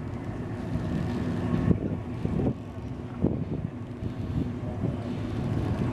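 Low, steady engine rumble, as of ship and tug engines working nearby, with wind gusting on the microphone.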